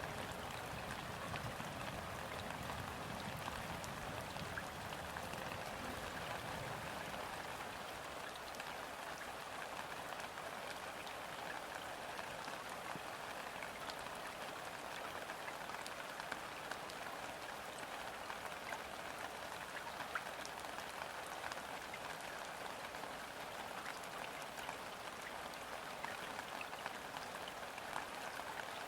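Steady gentle rain falling onto a river's surface, a dense even patter with scattered individual drops. A low rumble fades away over the first several seconds.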